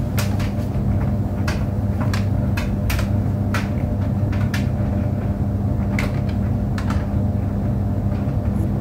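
Tumble clothes dryer running: a steady low hum with irregular sharp clicks and knocks throughout.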